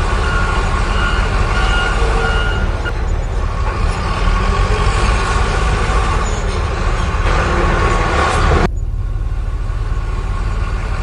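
Construction-vehicle engine sound: a steady low rumble with a higher, grinding layer and a few steady tones over it. The higher layer cuts off suddenly near the end, leaving the rumble.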